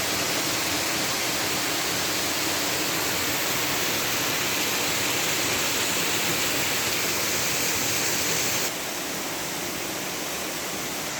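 Waterfall rushing: a steady, even roar of falling water that drops a little in level near the end.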